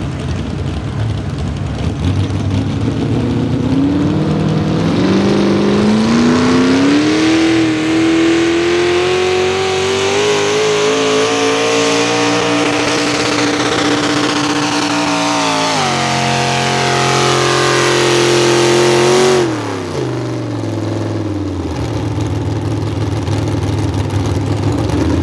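Small-block V8 of a modified pulling tractor at full throttle under load as it pulls the sled. The engine note climbs steadily over several seconds and holds high. It drops sharply about sixteen seconds in, climbs again, then the throttle is cut suddenly and the engine winds down to idle.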